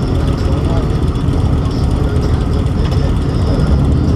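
Motorcycle engines running steadily with a loud, continuous low rumble.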